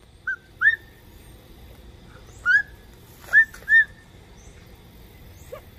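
A bird giving five short, high chirps spread over about three and a half seconds.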